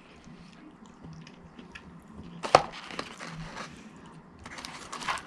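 Close-up eating of french fries: a sharp crunch about two and a half seconds in, then crackly chewing near the end.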